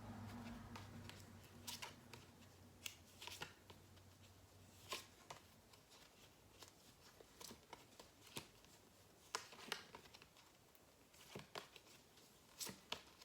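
Faint, irregular flicks and taps of paper flashcards being flipped through by hand.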